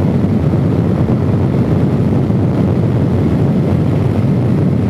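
Suzuki DRZ400S single-cylinder four-stroke engine running steadily under way at speed through a slip-on muffler, mixed with wind rush.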